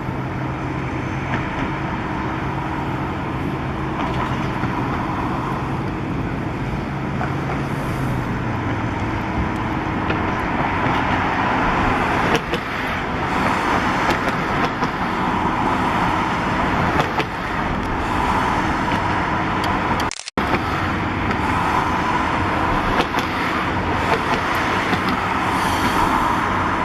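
Steady city road traffic noise, with a low engine hum under it for the first several seconds. The sound cuts out for a moment about twenty seconds in.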